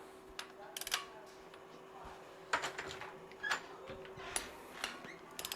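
Wrench work on the cylinder head bolts of an Allis Chalmers C engine: about seven sharp metallic clicks and taps at uneven intervals, over a faint steady hum.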